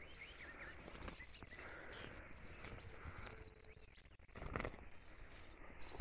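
A small songbird chirping: a quick run of about ten short high notes, about five a second, then two higher notes near the end. Tall grass rustles underfoot, loudest a little past the middle.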